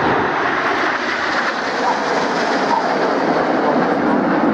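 Jet aircraft engine noise from an aircraft flying past: a steady, loud roar.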